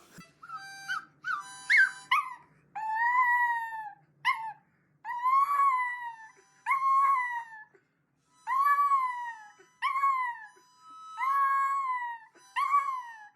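A dog howling in a series of about ten drawn-out, high calls, each rising and then falling in pitch, with short pauses between them.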